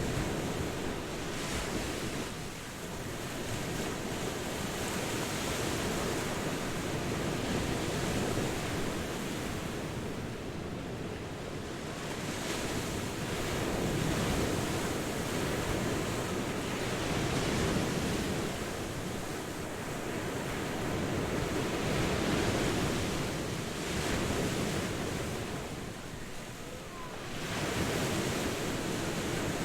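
Ocean waves breaking and washing on the shore in a continuous surf, swelling and easing every few seconds, with some wind noise.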